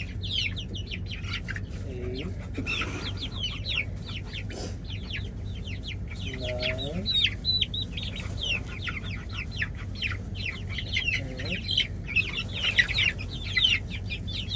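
A flock of young chicks peeping continuously, many short high chirps each falling in pitch, overlapping with no pause.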